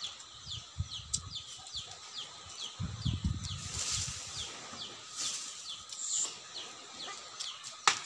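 A bird chirping over and over, a short high note falling in pitch about twice a second. Low rumbling comes in about three seconds in, and there is a single sharp click near the end.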